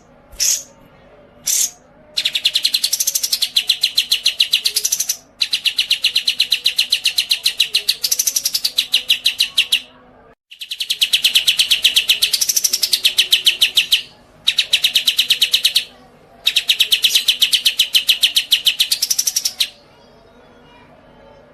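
A songbird singing long, very rapid chattering trills, five bouts of a few seconds each with short pauses between, after two short chirps at the start.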